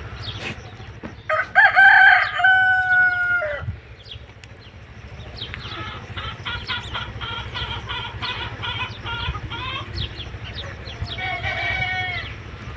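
A rooster crowing once, a long loud call about a second in that drops in pitch at its end, followed by chickens clucking in a steady run of short notes and a shorter call near the end.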